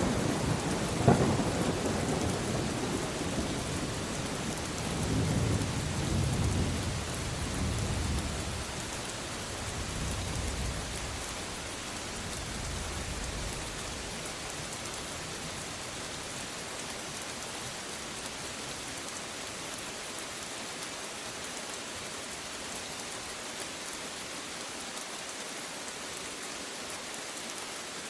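Thunderstorm: steady rain with thunder, a sharp crack about a second in followed by low rolling rumbles that die away by about twelve seconds, leaving only the even hiss of rain.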